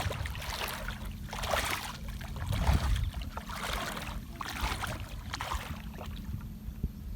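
Shallow river water sloshing and splashing in separate swishes about a second apart as a person wades and gropes by hand along the riverbed, over a low wind rumble on the microphone.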